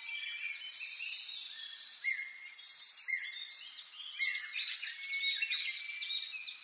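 Birdsong: several birds chirping and trilling in quick short phrases, busiest in the second half. A thin, steady, high-pitched pulsing tone runs beneath them and drops out about five seconds in.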